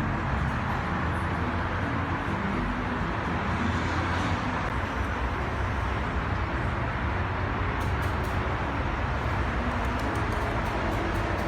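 Steady low rumble of outdoor urban background noise, like distant traffic, with a few faint clicks near the end.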